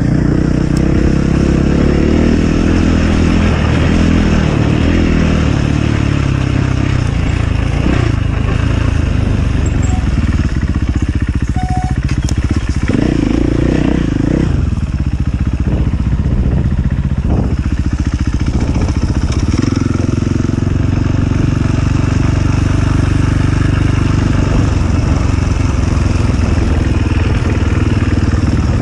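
Enduro motorcycle engine running under load, its revs rising and falling as it is ridden off-road.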